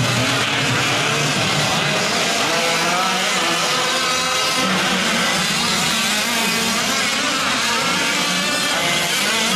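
Several 1/5-scale gas RC trucks' small two-stroke engines racing together, their buzzing pitches rising and falling as they rev and back off.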